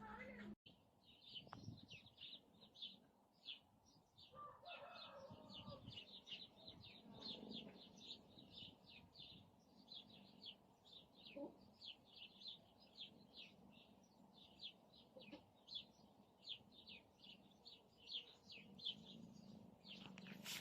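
Faint, rapid high chirping from a bird, short chirps about three or four a second, kept up without a break.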